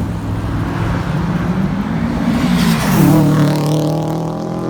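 Car engine revving as it accelerates, its pitch climbing, dipping briefly about three seconds in, then climbing again.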